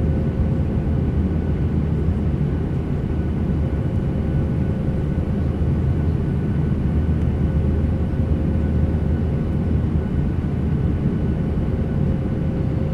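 Steady cabin noise of an airliner: an even low rumble with a faint steady hum, unchanging throughout.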